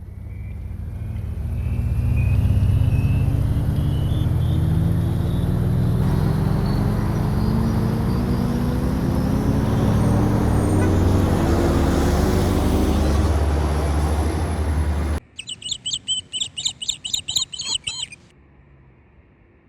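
A motor vehicle's engine running loudly, its pitch rising slowly and steadily, cut off abruptly about fifteen seconds in. Then a small bird chirping rapidly for about three seconds.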